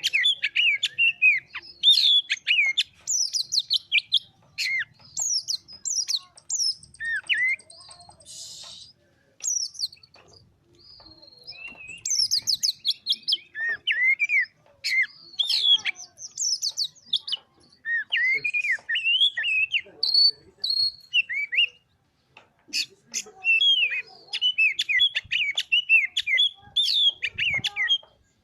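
Oriental magpie-robin (kacer) singing energetically: a fast, varied stream of chirps and sliding whistled notes, broken by a couple of short pauses.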